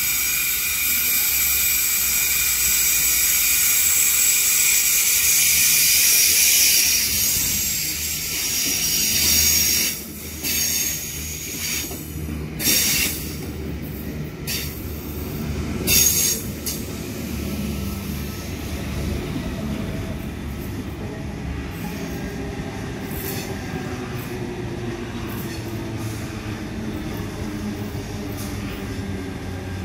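Double-deck electric trains at a station: loud high-pitched wheel squeal as one runs in along the platform, then scattered clanks and knocks as its cars pass. Then a steady rumble under a slowly rising motor whine as a train pulls away.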